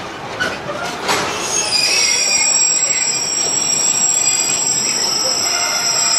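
A train on the rails: a few sharp clicks, then from about a second and a half in a steady high-pitched squeal sets in over a louder, even running noise.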